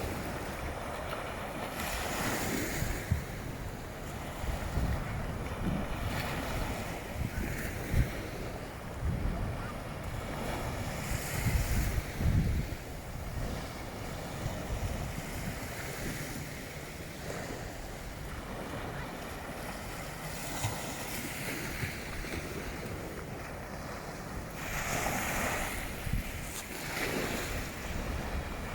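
Gusty wind buffeting the microphone with a low rumble, over the wash of waves breaking on a beach; the swells of surf rise and fall every few seconds.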